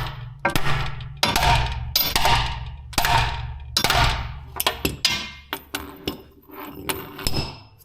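Repeated hammer blows on rusty steel exhaust parts, about a dozen sharp clangs at an uneven pace of roughly one a second, each ringing briefly, over a low steady hum.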